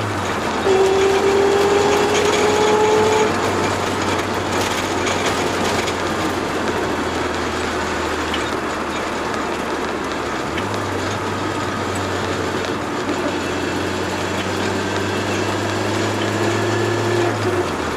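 Turbocharged Toyota AE86 driving: a steady drone of engine and road noise, with a whine that rises slowly in pitch over the first few seconds as the car gathers speed, then steady cruising.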